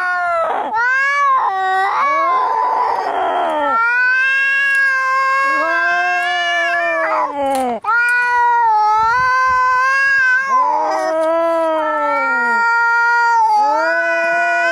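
Domestic cats yowling in long, drawn-out wails that rise and fall in pitch, the caterwauling of angry cats in a fight or standoff, with a harsh hiss about two seconds in.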